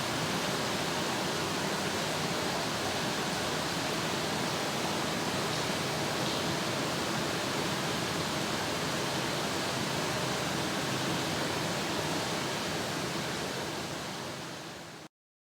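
Steady, even rushing noise that fades over the last couple of seconds and then cuts off abruptly.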